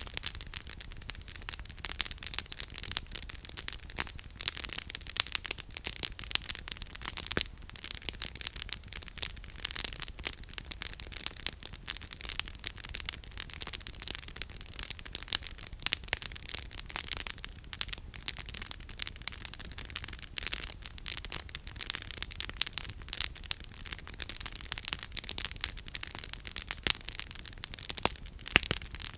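Campfire of burning firewood crackling steadily, with frequent sharp pops and snaps at irregular intervals.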